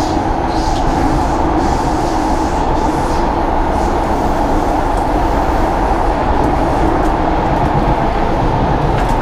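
Singapore MRT metro train running between stations, heard from inside the carriage: a steady rumble of wheels and car body with a steady whine.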